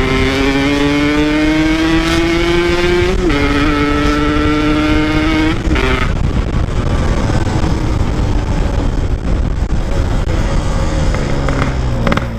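Motorcycle engine under hard acceleration: its pitch climbs steadily, drops at a gear change about three seconds in, climbs again, then near six seconds the engine tone fades into a loud rush of wind over the microphone at speed.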